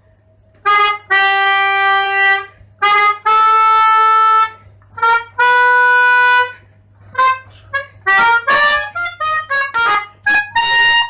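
Pianica (keyboard harmonica) played as a test before repair: three long held notes, then a quicker run of short notes. The player finds that the notes in one part of the keyboard don't sound at all.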